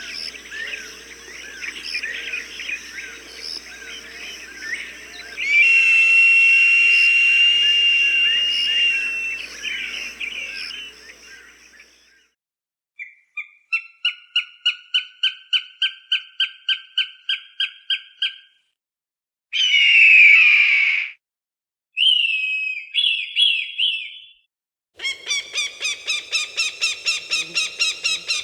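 Recorded falcon calls played as a bird deterrent: a busy twittering of chirps with a long held whistle note, then after a short gap bouts of sharp repeated calls about five a second, one harsh screech, and another rapid series near the end.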